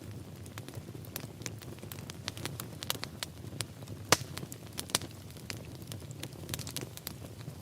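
Wood fire in a fireplace crackling, with frequent irregular pops and one sharp loud pop about four seconds in, over a low steady rumble of the flames.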